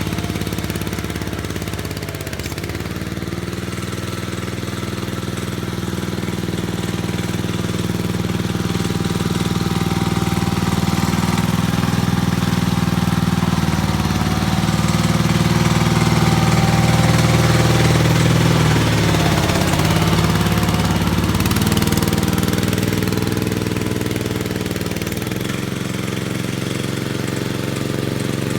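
Gravely tractor engine running steadily under varying load, its speed sagging and recovering several times.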